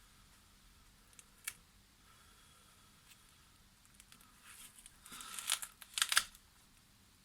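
A single sharp click, then a few seconds of crinkling, rustling handling noise that comes in two loudest bursts about five and six seconds in.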